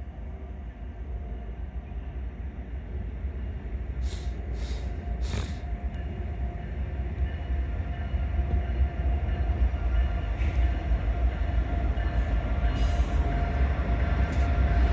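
Metra commuter train rumbling, growing steadily louder as it approaches, with three short hisses about four to five seconds in.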